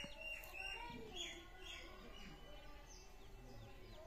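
Small birds chirping over and over in short falling chirps, with a faint click or two near the start.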